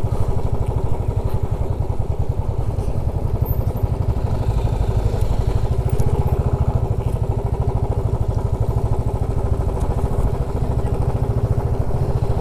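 Motorcycle engine running steadily at low revs, its even low firing pulses unbroken.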